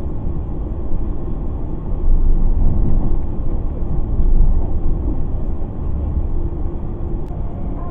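Electric commuter train running along the track, heard from inside the carriage: a steady rumble of wheels on rails that grows louder about two seconds in and eases off after about four and a half seconds, with one faint click near the end.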